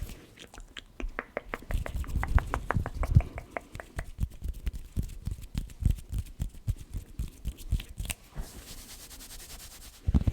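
Rapid fingertip tapping close to the microphone, in quick irregular runs of soft knocks. The taps give way about eight seconds in to a quieter brushing hiss.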